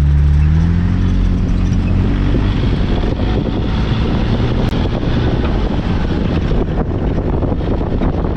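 A 4x4 vehicle's engine rising in pitch as it accelerates, then running on steadily under the rumble of tyres and road noise, with some wind on the microphone.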